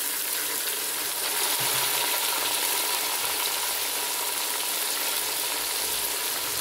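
Cut tomatoes and garlic sizzling in hot oil in an aluminium pressure cooker pan, a steady hiss.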